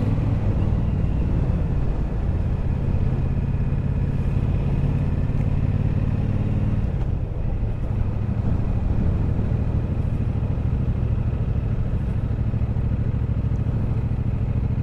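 Triumph Bobber's 1200 cc parallel-twin engine running steadily as the motorcycle is ridden, heard from on board. The engine note dips briefly about halfway through, then settles steady again.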